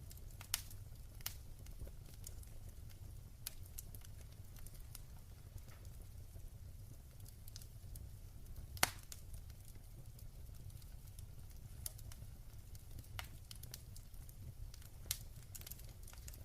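Wood fire burning in a fireplace: a low steady rumble of the flames with scattered sharp crackles and pops, the loudest pop about nine seconds in.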